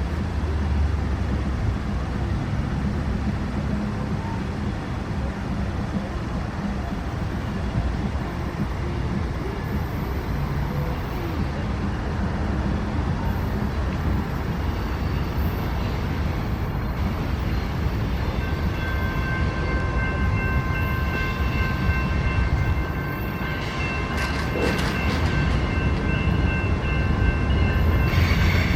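Train running by with a steady low rumble and rolling noise; about two-thirds of the way through, several steady high-pitched tones join in and hold to the end.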